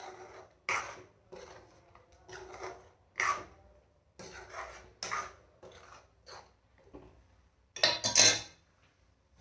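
A spoon scraping and knocking against a cooking pan in strokes about a second apart, stirring chicken into a ground green masala paste; the loudest stroke comes near the end.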